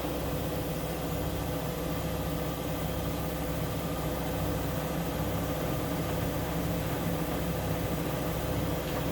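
Siemens Siwamat IQ 716 washing machine running steadily: an even motor hum with a few steady tones.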